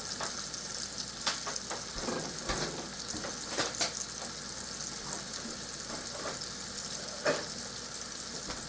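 Flour-dredged ground-beef Salisbury steak patties sizzling as they brown in a frying pan: a steady hiss with a few sharp crackling pops.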